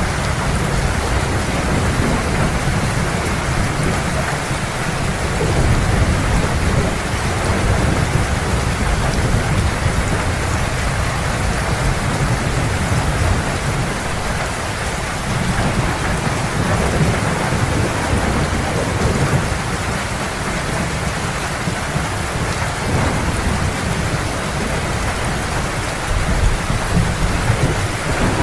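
Heavy rain falling steadily, with a continuous low rumble of thunder beneath it that swells a little a few seconds in and again near the end.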